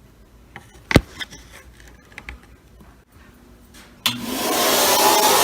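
Light handling clicks and one sharp knock about a second in. Then, about four seconds in, an electric motor-driven suction or blower machine switches on suddenly and runs up to a loud steady whoosh.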